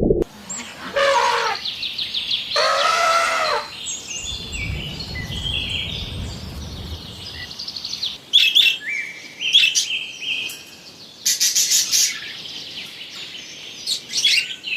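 Birds chirping and calling. Two louder calls come in the first few seconds, followed by a run of short, high chirps and trills.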